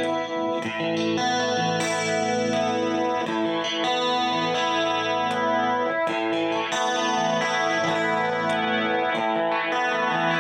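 Dimavery ST-312BK electric guitar played with a clean amplified tone, chords struck and left to ring, changing every second or two.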